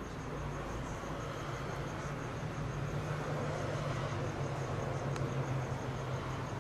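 Crickets chirping in an even, rapid, high-pitched pulse over a steady low hum.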